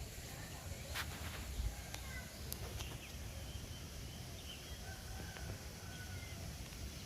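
Outdoor background with a low steady rumble, scattered short faint bird chirps and a couple of soft clicks.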